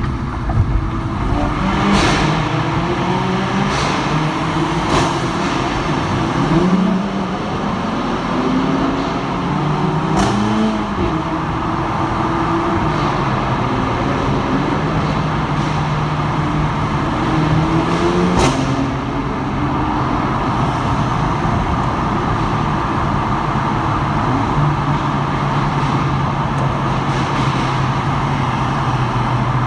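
Performance hatchback engines accelerating hard through a road tunnel, their pitch climbing and breaking again and again as they shift up through the gears, with a handful of sharp exhaust pops and bangs echoing off the tunnel walls. In the last third the engines settle into a steadier drone.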